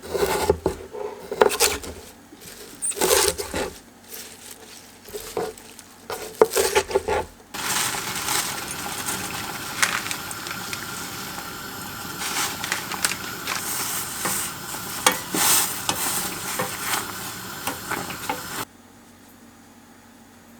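Kitchen utensils and dishes clatter and knock for several seconds. Then a steady sizzling hiss dotted with small crackles runs until it cuts off suddenly near the end.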